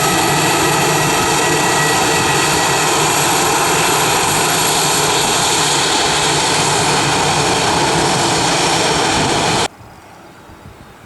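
Airliner engines running loud and steady, a high whine over a broad rush, as a plane passes close. The sound cuts off suddenly near the end, leaving a much quieter background.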